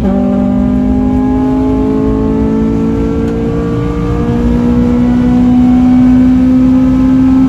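FN2 Honda Civic Type R's four-cylinder engine at full throttle on track, its pitch climbing slowly and steadily as it pulls through one gear for several seconds.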